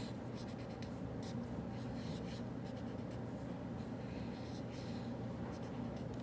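Writing by hand on paper: irregular short scratchy strokes of a pen on paper, over a steady low room hum.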